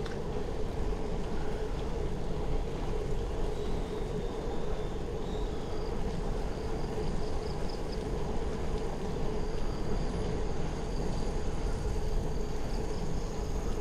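Steady rumbling ride noise of a moving bicycle, with wind on the microphone and a steady hum. Faint high thin calls come in and out above it.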